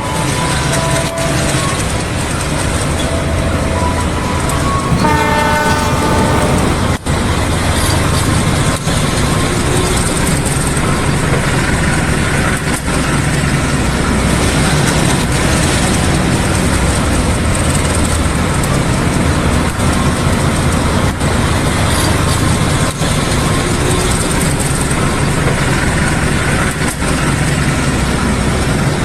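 Train running steadily with a rumble and wheel clatter. A train horn blows for about two seconds some five seconds in.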